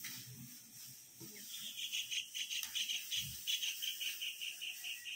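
A bird calling in a long, even series of short high notes, about six a second, starting about a second and a half in.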